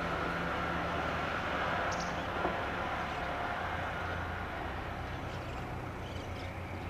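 JR 211 series electric multiple-unit train pulling away, its running noise and a steady whine slowly fading as it moves off.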